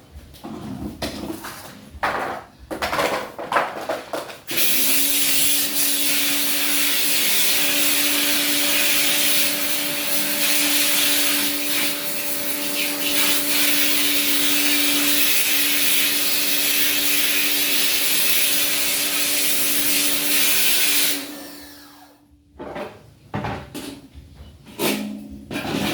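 A small electric motor runs steadily with a loud hiss and a steady hum for about seventeen seconds, starting abruptly a few seconds in and cutting off near the end. It is surrounded by scraping and knocking from handling.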